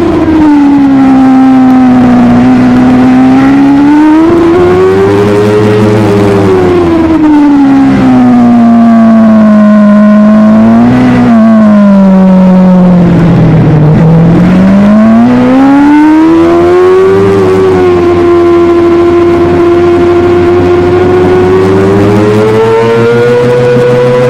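Superbike engine under way, its note rising and falling as the rider accelerates and eases off, with no break in the sound. About eleven seconds in the pitch sinks steadily to its lowest point a few seconds later, then climbs again and holds fairly high toward the end.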